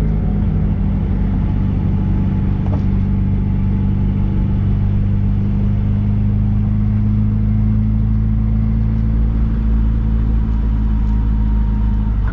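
MG Midget's four-cylinder engine running at a steady speed, a continuous low hum heard from inside the open-top car.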